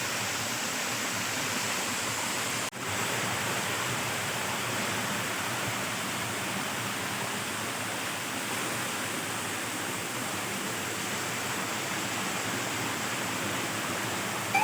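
Waterfall with water falling at high speed: a steady rushing noise. It drops out for an instant about three seconds in.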